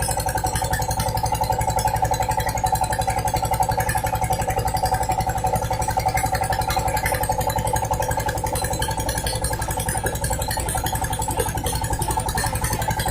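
An engine running steadily at constant speed, with a fast even pulsing and a steady hum.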